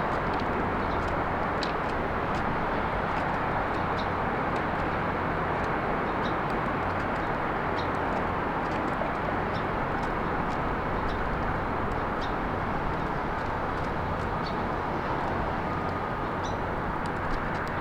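Steady rumble of road traffic, with small birds giving short, high chirps about once a second.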